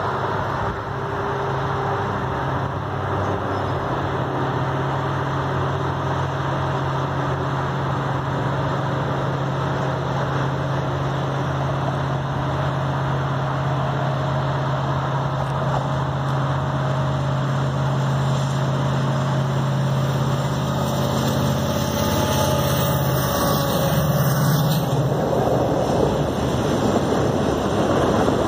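Steady rumble and hiss of highway traffic under the low drone of a CN freight train's diesel locomotives approaching. The drone shifts and fades about 25 seconds in as the locomotives pass close by, and the freight cars begin rolling past near the end.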